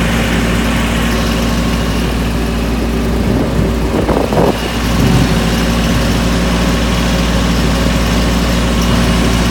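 Diesel engine of a Mahindra 1526 compact tractor running steadily while it drives a 5-foot rotary cutter through tall grass. About four seconds in, the sound briefly wavers and dips.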